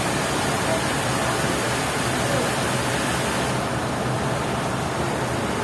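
Sawmill machinery running steadily: an even wash of noise over a low, constant engine hum.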